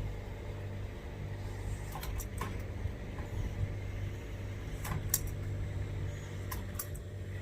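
Steady low hum of an idling diesel truck engine, with a few light metallic clicks and clinks.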